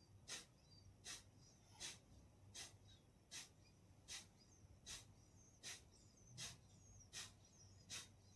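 Kapalbhati breathing: short, forceful exhalations through the nose, each a sharp puff of air driven by a snap of the belly muscles, repeating in an even rhythm of about four puffs every three seconds.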